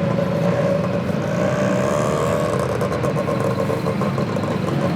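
Busy street traffic noise with a motor vehicle engine running close by, its pitch wavering and shifting about midway as it passes.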